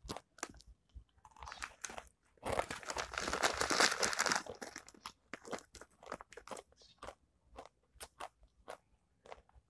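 A person chewing a crunchy snack close to the microphone. The crunching is loud and dense for about two seconds, then turns into a quick run of short, sharp crunches.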